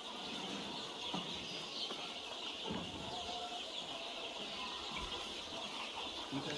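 A flock of young chicks, about ten days old, peeping together in a steady, dense high chorus.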